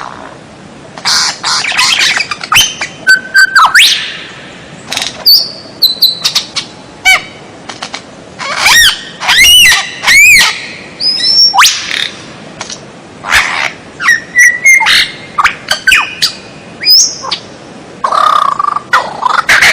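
Songbird masteran recording: a varied song of loud whistles, rising and falling sweeps, quick chirp series and harsh notes, in short phrases with brief pauses, starting about a second in.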